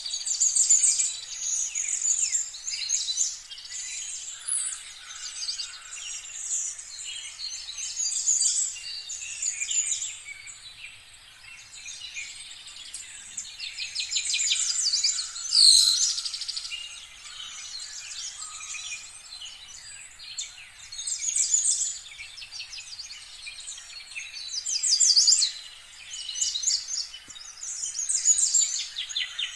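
Birds chirping and trilling, several calls overlapping in a busy chorus, with one louder call about halfway through.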